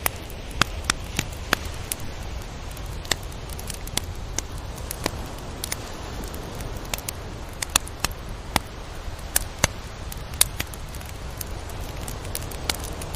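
Tropical beach ambience: a steady wash of surf and wind noise with a low rumble, broken by frequent irregular sharp clicks and crackles.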